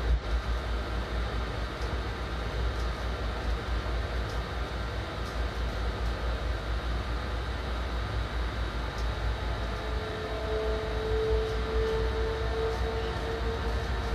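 Train running on the rails, heard inside the driver's cab: a steady low rumble of wheels on track with faint ticks every second or two. About ten seconds in, a steady whine comes in over the rumble.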